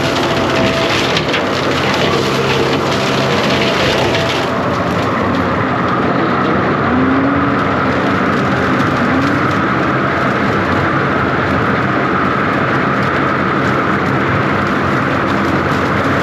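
John Deere 333G compact track loader's diesel engine running hard while its hydraulic brush-clearing attachment cuts through limbs and brush, with a crackle of splintering wood. About four and a half seconds in the cutting crackle drops away, leaving the engine and a steady hydraulic whine.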